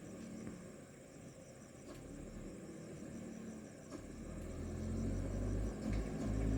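Insects chirping steadily in a high, fast, even pulse. A low engine rumble builds up in the second half and becomes the loudest sound near the end.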